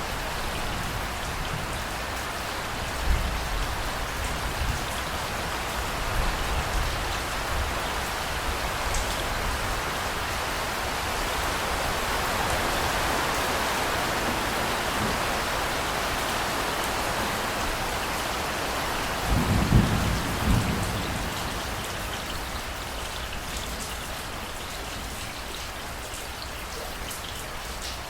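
Steady heavy rain falling, with low rolls of thunder. Two faint rumbles come in the first several seconds, and a louder thunder roll comes about two-thirds of the way through.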